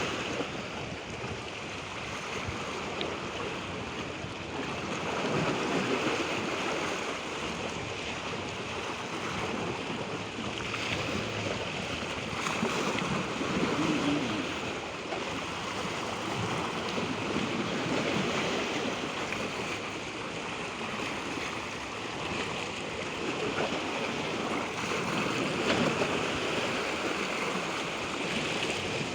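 Waves washing in: a steady rush of water that swells and eases every several seconds.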